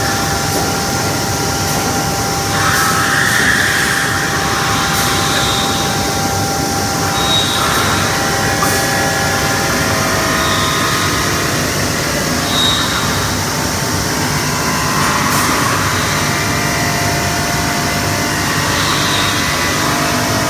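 CNC glass-cutting machine running: a steady mechanical noise with motor whines that come and go and change pitch, and short high tones that recur every few seconds.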